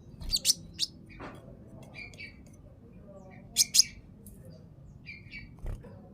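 A konin songbird chirping: a quick cluster of sharp high chirps at the start, softer chirps now and then, and a loud pair of chirps midway. A low thump comes near the end.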